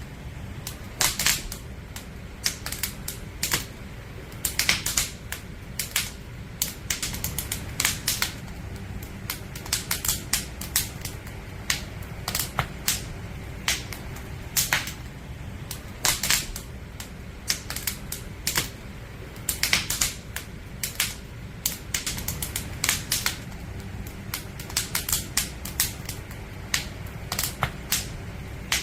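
Firewood burning in a campfire: irregular sharp crackles and pops, often in quick clusters, over a steady low rumble.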